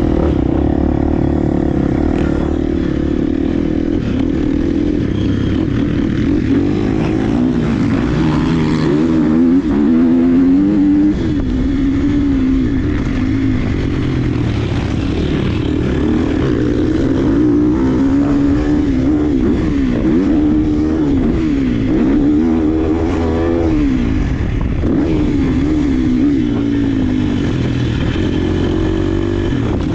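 Dirt bike engine running under hard riding, its pitch rising and falling again and again as the throttle is opened and shut and gears change around the track.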